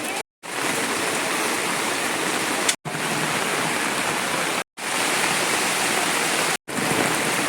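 Heavy rain pouring in a steady, dense hiss, cut by four brief silences.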